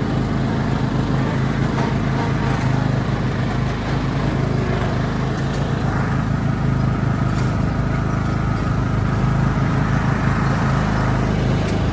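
Tractor engine running steadily under way, a loud low drone that holds even throughout.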